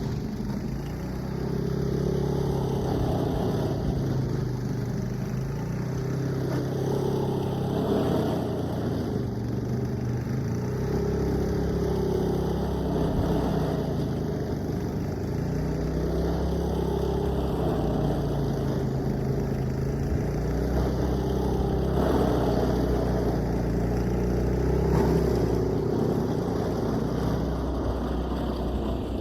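An engine running continuously, its sound swelling and easing in a repeating cycle about every five seconds.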